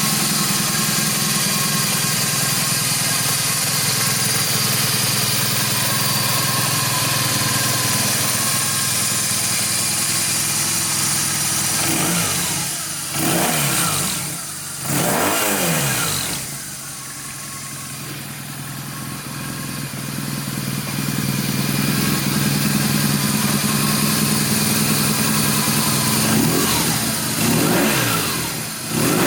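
BMW R1200GS's flat-twin boxer engine idling steadily, with a few quick throttle blips, each rising and falling in pitch, about halfway through and again near the end.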